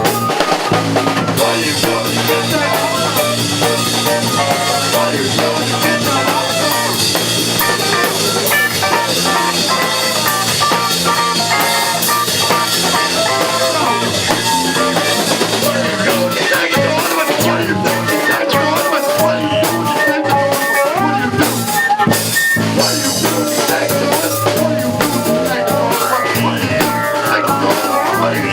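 Live band playing a song on drum kit and electric guitar, loud and continuous, with steady drumming throughout.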